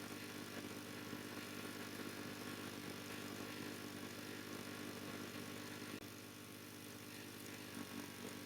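A motor or engine running steadily at one speed with a constant hiss over it, cutting off suddenly at the very end.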